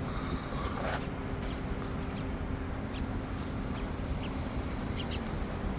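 Road and tyre noise inside a moving Tesla Cybertruck: a steady low rumble with a faint even hum, a brief hiss in the first second and a few small ticks.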